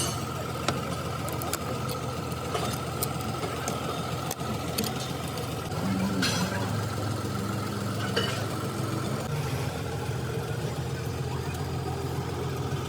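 Steady low engine hum with a thin, steady high whine over it, and a few scattered sharp clicks or taps.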